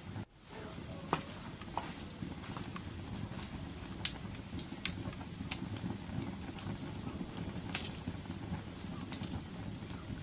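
Wood fire crackling: a steady low rumble of burning with scattered sharp pops and snaps, a handful of them clearly louder than the rest. The sound drops out for a split second just after the start.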